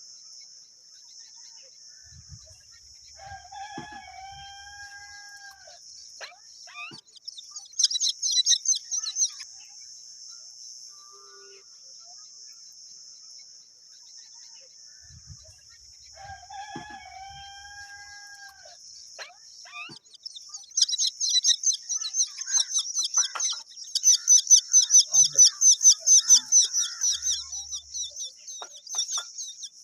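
Rapid high-pitched chirping calls of a baby myna bird: a short burst about eight seconds in, then a long, loud run of chirps in the last third. The calls sit over a steady high insect drone, and a rooster crows twice.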